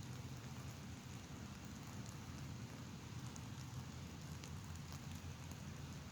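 Light rain sprinkling, with scattered drops ticking over a steady low rumble.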